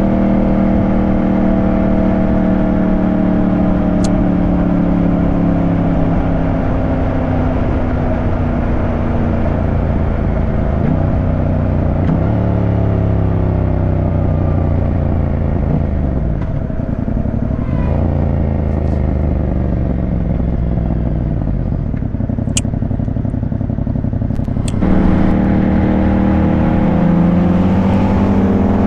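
Yamaha 689 cc parallel-twin motorcycle engine running under way, its note rising and falling with throttle and gear changes. The pitch drops twice through the middle, then the engine gets louder with a rising pitch near the end as it accelerates.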